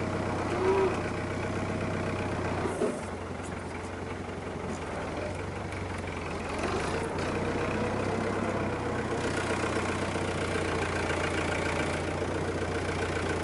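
Farm tractor engine running steadily, its note dipping briefly about three seconds in before settling again.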